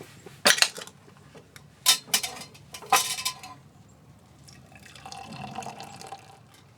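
A few sharp clinks and knocks of glass or tableware, then a short pour of liquid lasting about a second and a half near the end.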